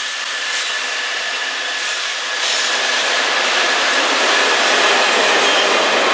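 Steady rushing noise of an approaching CN freight train, growing louder about two and a half seconds in.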